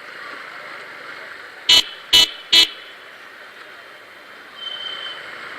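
Vehicle horn tooting three times in quick succession, each toot very short and under half a second apart, over steady road noise.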